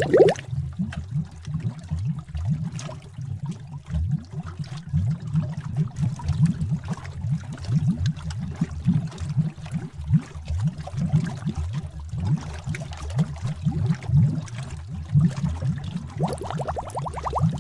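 Witch's cauldron bubbling sound effect: a thick liquid gurgling with a steady run of deep, low bubbles. A lighter, higher-pitched bubbling joins in near the end.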